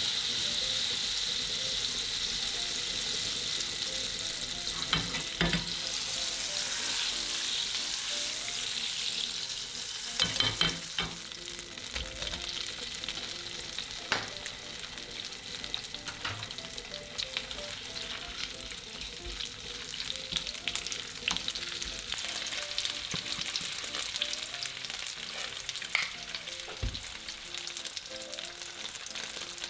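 Food sizzling steadily in a hot frying pan, with a few sharp knocks of a utensil against the pan as it is stirred, loudest about ten seconds in.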